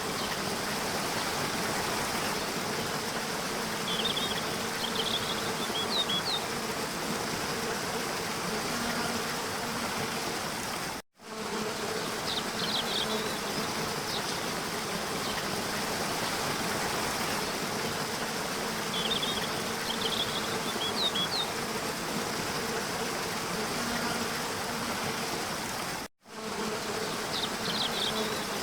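Steady rush of a waterfall under a continuous high insect buzz, with a few short bird chirps. The sound cuts out for a moment twice, about fifteen seconds apart, where the recording loops.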